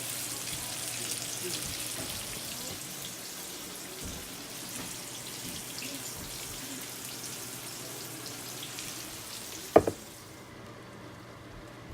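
Food sizzling and crackling in a hot pan on the stovetop. About ten seconds in there is a single sharp clank, and after it the sizzle quickly fades to a low hiss.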